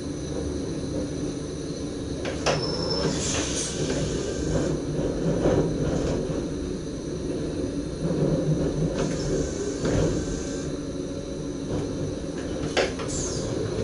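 SGM Sprinter electric train running slowly over station points, heard from the driver's cab: a steady low rumble of the running gear. There is a sharp clack over a rail joint about two and a half seconds in and again near the end, each followed by a brief high squeal.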